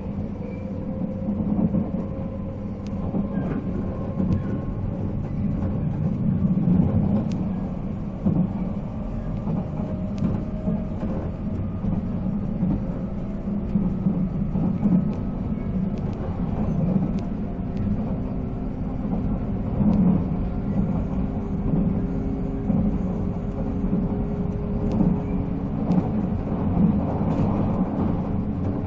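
The MT54 traction motors of a 485-series electric train running under power, their whine climbing slowly in pitch as the train gathers speed, over a steady rumble of wheels on rail.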